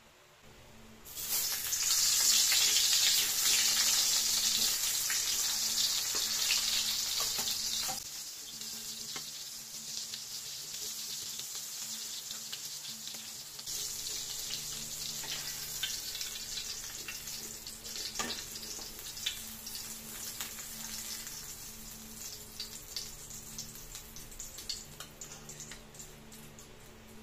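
Hotdogs sizzling in hot oil in a steel wok: a loud sizzle starts about a second in, drops about eight seconds in and carries on more quietly, with a metal spatula clicking and scraping against the wok now and then.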